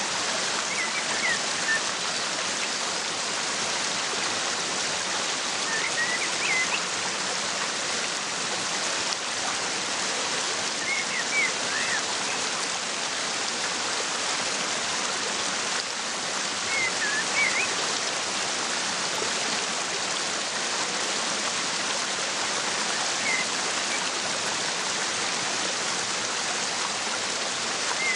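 A waterfall rushing steadily, with a small bird chirping in short high runs of a few notes about every five to six seconds.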